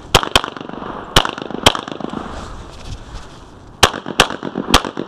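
Glock 35 pistol firing .40 S&W rounds in quick pairs: about eight shots, with a pause of about two seconds in the middle.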